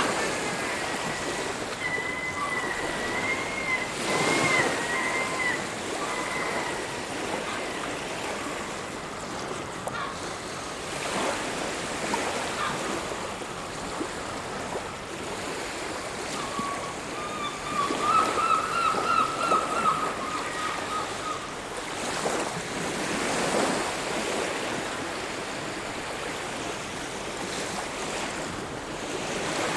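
Sea waves breaking and washing up a beach, swelling every few seconds. A bird calls twice over the surf in drawn-out wavering calls, once near the start and once about two-thirds of the way through.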